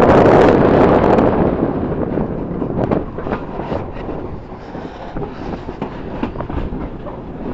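Railway carriage running along the track, its wheels clicking irregularly over rail joints under a low rumble. Wind rushes over the microphone at first and dies away after about a second.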